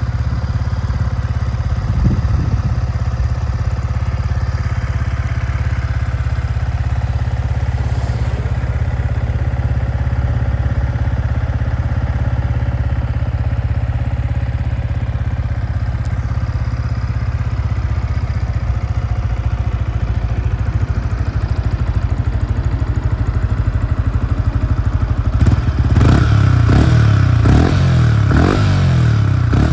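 Yamaha MT-125's single-cylinder 125 cc engine idling steadily through a BEAMS aftermarket muffler. Near the end it is blipped several times in quick succession, each rev rising and dropping back to idle.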